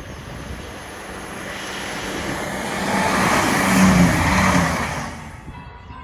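A diesel multiple unit passing by: its rail and engine noise swells to its loudest about four seconds in, with a low engine hum at the peak, then falls away quickly.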